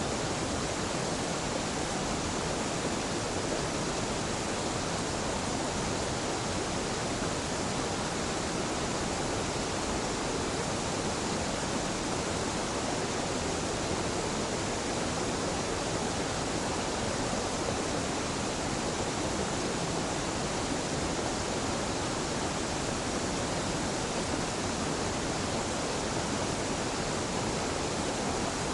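Mountain waterfall pouring steadily: a constant, even rush of falling water with no change throughout.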